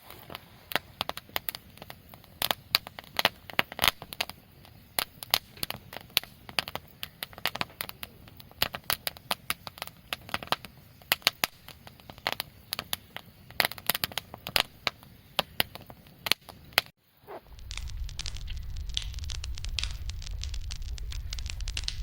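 Wood fire crackling, with many irregular sharp pops. About 17 seconds in the sound cuts to a steadier low rush of flame with fewer pops.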